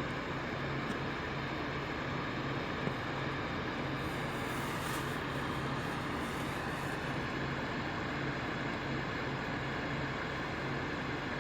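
A parked truck running at idle: a steady, unchanging engine hum with a low, evenly pulsing drone.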